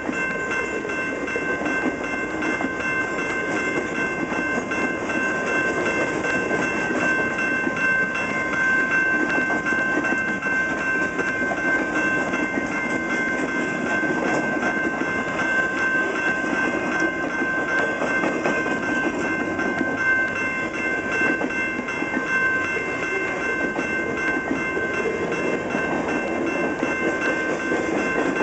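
Canadian National freight train's cars rolling past, a steady rumble of wheels on rail with a high-pitched squeal held over it.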